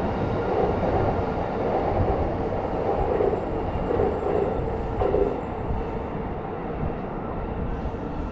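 An electric train running along the tracks, a steady rumble that is louder for the first five seconds or so and then eases off as it draws away.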